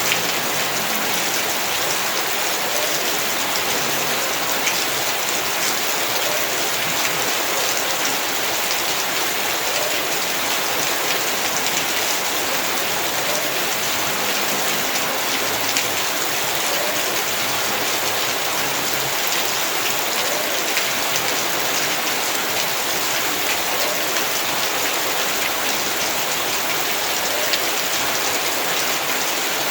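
Heavy rain falling steadily, a dense, even hiss with scattered drops ticking on surfaces.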